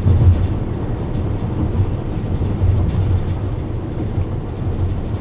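Steady low road and engine rumble inside a car cruising at freeway speed.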